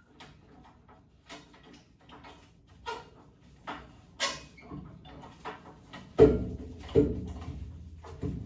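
Metal clicks and clanks of an SCBA cylinder charging adapter being disconnected, handled and set into its bracket, with two heavier knocks about six and seven seconds in.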